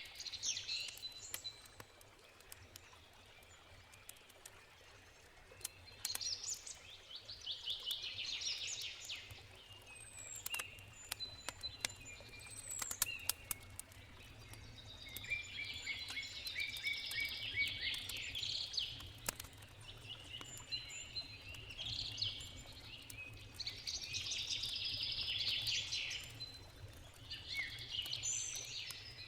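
Songbirds singing, short high trilled phrases repeated every few seconds, over the sharp crackle and pop of a wood campfire. A faint steady low rumble of flowing river water lies underneath.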